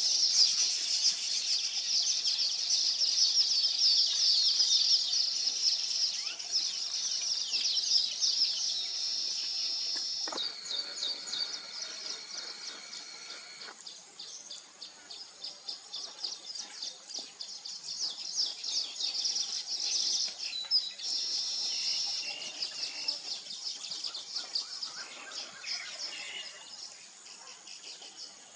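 A colony of weaver birds chattering and buzzing in a dense, fast, high-pitched chorus. It is loudest for the first ten seconds or so, then thins out and grows quieter, with a lower, steadier call from about ten to fourteen seconds in.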